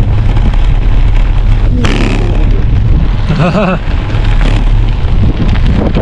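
Wind buffeting the microphone of a camera on a moving bicycle, a heavy steady rumble, with a brief voice about halfway through.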